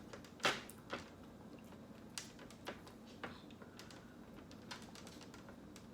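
Eating sounds from ice cream being eaten: scattered soft clicks and mouth smacks, about half a dozen, the loudest about half a second in.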